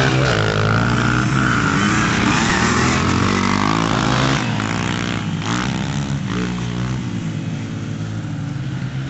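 Dirt bike engines revving up and down, loud for the first four seconds or so, then fading and quieter.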